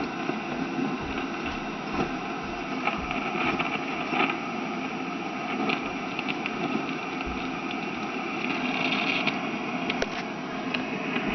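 Rogers vintage tube radio, freshly recapped with a new rectifier tube, putting out steady static hiss with scattered crackles and clicks and no clear station coming through.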